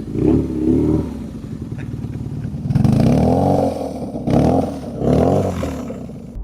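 Custom BMW motorcycle engine running and being revved in about four short blips, the pitch rising and falling each time, settling back to a lower idle between them.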